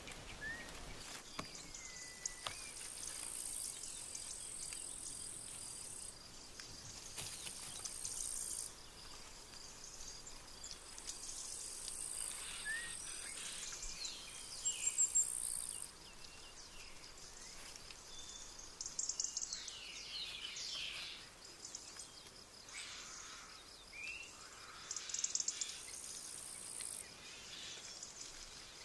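Woodland ambience: a steady high insect trill, like a cricket, with scattered short bird chirps and calls and a few louder bursts of chirping.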